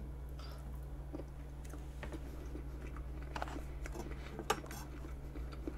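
Soft chewing and mouth sounds of someone eating vanilla pound cake with whipped cream, with faint small clicks and one sharper click about four and a half seconds in.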